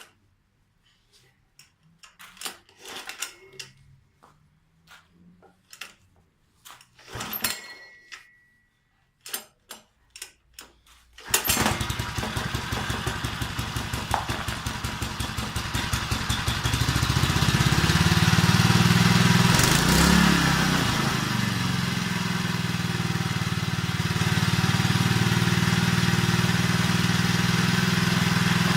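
Robin EY15B single-cylinder air-cooled four-stroke engine being started: a run of clicks and knocks as it is readied, then it catches about eleven seconds in and runs, getting louder a few seconds later and settling into steady running. It runs smoothly with its fuel tank and carburettor freshly cleaned, showing no faults.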